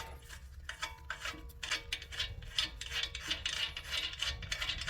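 Ratchet wrench clicking in repeated short strokes, a few a second, as a jammed pair of nuts is worked loose on an exhaust manifold stud.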